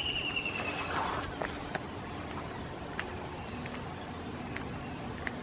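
Outdoor ambience with a steady high insect drone. A falling whistle fades out about a second in, and a few short, sharp chirps are scattered through.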